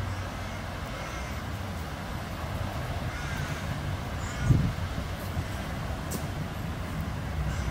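Low steady rumble of a V/Line VLocity diesel train approaching in the distance, with birds calling a few times over it and a single low thump about halfway through.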